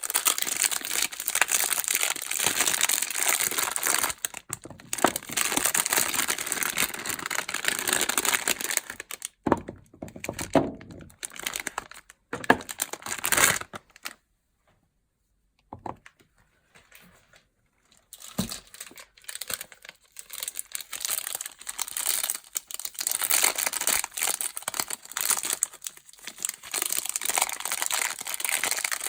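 Soap packaging crinkling and tearing as soap bars are unwrapped, with a few sharp knocks and a short pause midway before the crinkling starts again.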